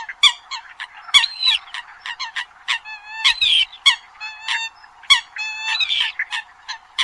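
Eurasian coot calling: a fast, irregular series of short, sharp honking notes, some drawn out into ringing, slightly bending calls.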